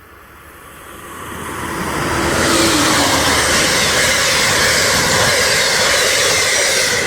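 Amtrak Northeast Regional train, an ACS-64 electric locomotive hauling Amfleet cars, passing through a station at speed. The noise of the train and its wheels on the rails builds over the first couple of seconds, holds loud, and begins to fade right at the end.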